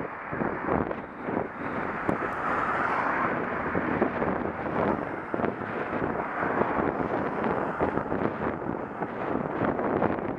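Wind buffeting the microphone of an action camera on a moving bicycle, with a steady rumble and frequent small knocks and rattles from riding over the road.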